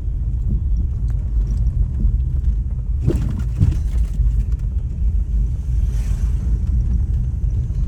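A moving vehicle's steady low rumble of engine and road noise, with two short knocks a little over three seconds in.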